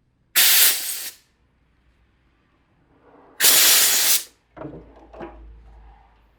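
Two short, loud hissing spray blasts, about three seconds apart, cleaning out the cordless chainsaw's clogged bar-oil passage. They are followed by a couple of light knocks of the saw being handled.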